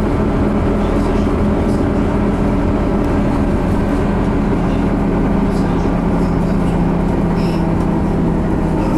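Scania CN270UB low-floor city bus under way, heard from inside the cabin: the diesel engine runs at a steady note over road and body noise.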